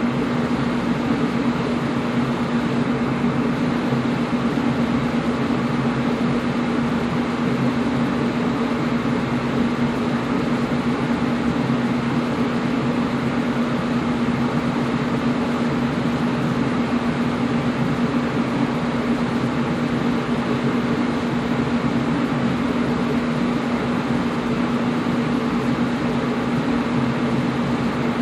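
Air conditioner running steadily: an even rush of air with a constant low hum from the unit's motor.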